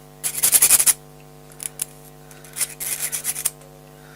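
A steel T-nut's edges being deburred by hand: two bursts of quick, short scraping strokes about a second in and near the end, with a couple of single strokes between them. A steady electrical hum runs underneath.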